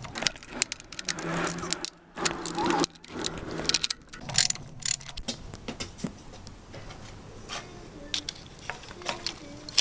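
Metal hand tools and engine parts clinking and knocking: many sharp clicks, busier in the first half, with a steady low hum for a couple of seconds about a second in.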